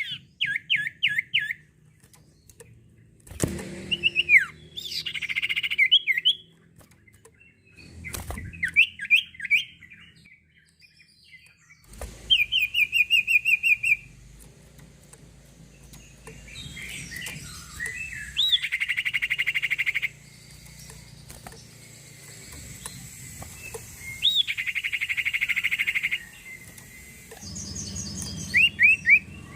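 A sirtu songbird singing in full voice: bouts of sharp up-sweeping whistled notes and fast rattling trills, repeated every few seconds, with the longest trills of about two seconds each. Two dull knocks come in the first third.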